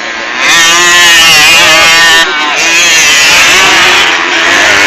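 Motocross bike engines revving hard close by, loud from about half a second in, the pitch climbing and falling as the riders work the throttle, with a brief drop a little after two seconds.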